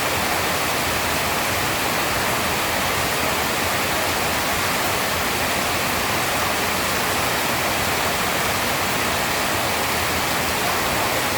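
Steady heavy rain, an even hiss with no thunder claps.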